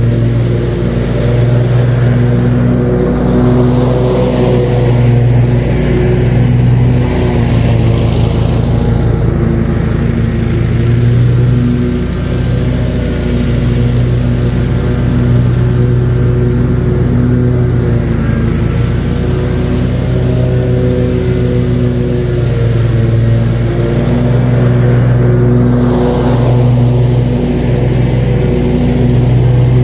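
Ride-on lawn mower engine running steadily at mowing speed, a constant hum with small dips and rises in pitch as it works.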